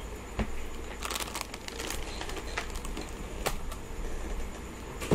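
Handling noise: crinkling for about a second, plus a few sharp clicks and taps.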